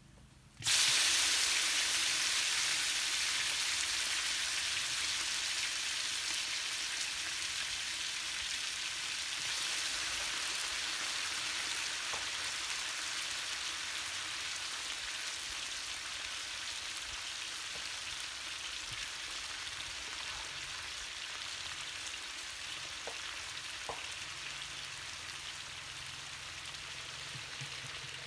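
Food frying in hot oil: a loud sizzle starts suddenly just under a second in, as something goes into the pan, and slowly eases off.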